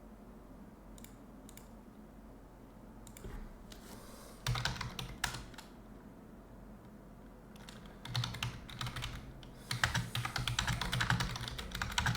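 Typing on a computer keyboard in spurts: a short burst of keystrokes about four and a half seconds in, then a longer run of rapid typing from about eight seconds on.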